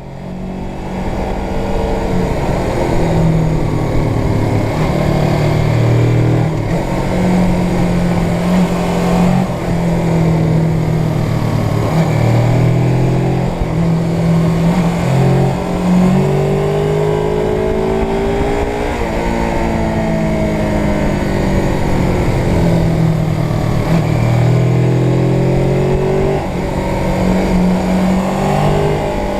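Suzuki GS500's air-cooled parallel-twin engine running on the move, its pitch rising and falling again and again with throttle and gear changes, over a steady rumble of wind on the microphone.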